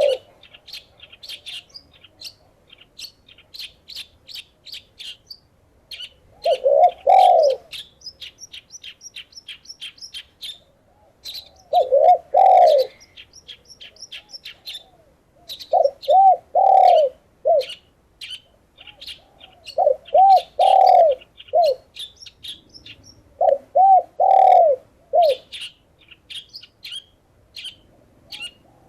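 A dove cooing in short phrases of two to four arched notes, a phrase every four seconds or so, over steady rapid high chirping of small birds.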